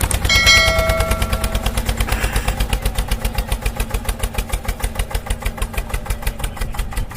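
Tractor engine running at a steady idle with a rapid, even thumping of about nine beats a second. A brief steady tone sounds near the start.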